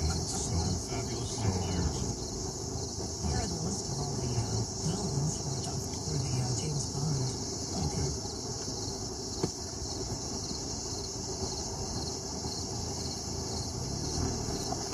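Crickets chirping in a steady, high-pitched chorus, with faint low voices murmuring in the first half.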